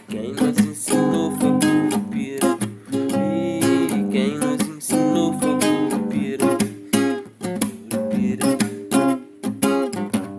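Acoustic guitar strummed in a song, with voices singing along.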